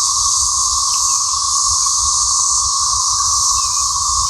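A loud, steady chorus of cicadas: a continuous high buzz with a lower, even drone underneath, unbroken throughout.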